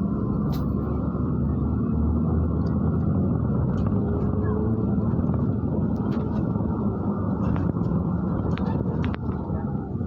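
Inside a MAZ-103 city bus on the move: the engine and road noise run steadily, with light clicks and rattles from the body and fittings.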